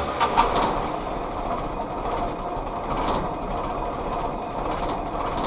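Willys L134 Go Devil flathead four-cylinder engine turning over and trying to fire, a steady mechanical running noise.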